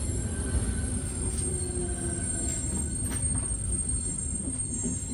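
Inside a regional train coach: a steady low running rumble as the train draws into a platform, with a faint brake squeal early on and a single click about three seconds in.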